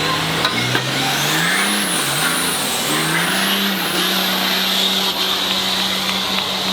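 Pulling vehicle's engine revving up and down, then held at a steady high speed under load, with a high whine rising and wavering above it.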